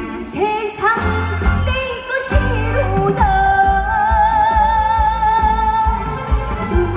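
Female voice singing a Korean trot song over backing music with a steady bass beat, holding one long note with vibrato from about three seconds in.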